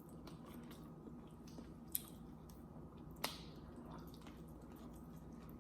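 Quiet close-miked chewing of food, with faint wet mouth clicks and two sharper clicks about two and three seconds in.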